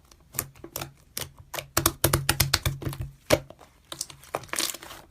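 A quick, irregular run of sharp clicks and small pops, sparse at first, bunching densely about two seconds in, with one louder click a little after three seconds.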